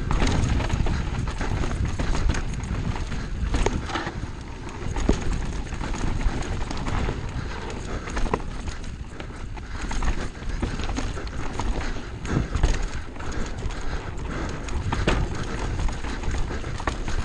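Downhill mountain bike running over a rough trail: a steady rumble of tyres on dirt with frequent sharp knocks and rattles from rocks and roots.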